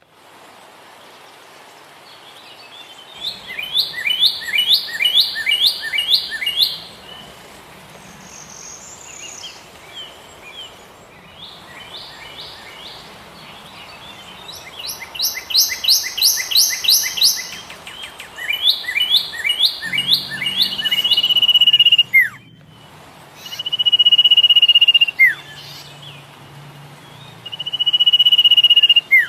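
Songbirds chirping in rapid runs of repeated sharp notes, several times over. Later come three long, steady, high whistled notes, each ending in a quick falling slide, over a constant background hiss.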